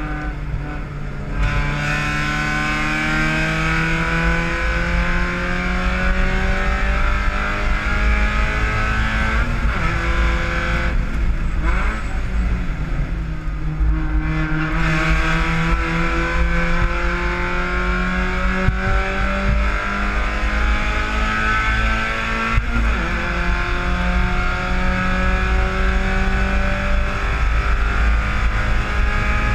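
Mazda Miata race car's four-cylinder engine heard from inside the stripped cockpit, pulling hard and rising in pitch through the gears, dropping back at each shift several times.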